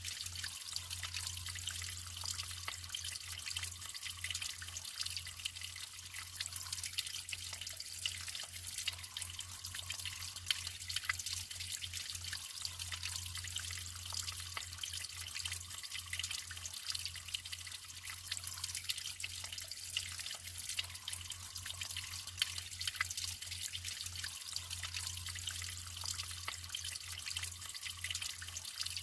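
Natural running water trickling and splashing, a dense patter of small droplets over a steady flow, with a low hum underneath.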